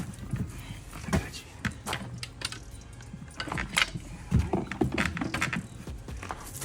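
Irregular metal clinks, knocks and rattles of tools, chain and engine parts being handled while an engine is worked on, over a steady low hum.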